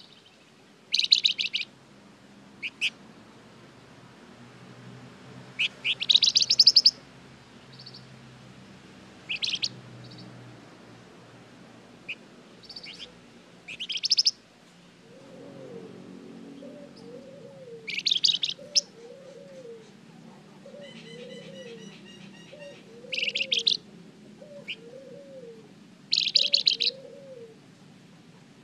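Flamboyan bird singing in short, loud bursts of rapid high chirps and trills, separated by pauses of a second or more. From about halfway through, a low cooing note repeats in the background about once a second.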